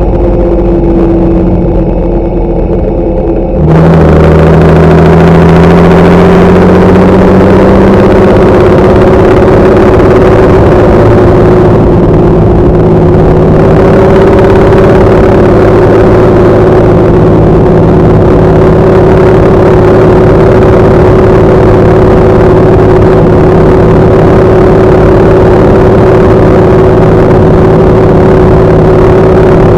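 Large farm tractor's diesel engine running hard under load. About three and a half seconds in, the sound suddenly opens up and the engine note climbs for a few seconds, then holds steady.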